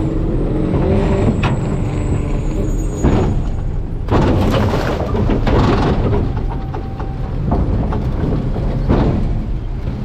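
Garbage truck running, with a series of knocks and crunching noises from the hopper, loudest from about four to six seconds in.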